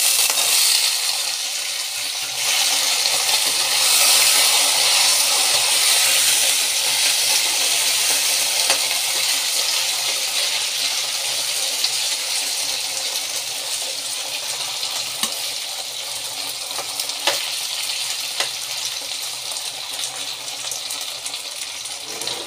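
Cubed raw potatoes sizzling loudly as they go into hot mustard oil in a metal kadhai, stirred with a slotted metal spatula that clinks against the pan a few times. The sizzle is strongest at the start and slowly dies down.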